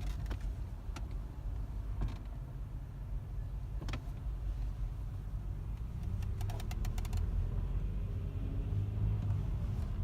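Car's low steady engine and road rumble, with a few sharp clicks and a short run of rapid ticking about six and a half seconds in.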